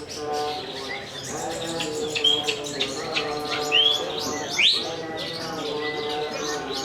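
Long-tailed shrikes (cendet) singing in a songbird contest: a fast jumble of chirps and sharp rising whistled notes, the loudest of them a little past halfway through, over a steady lower drone.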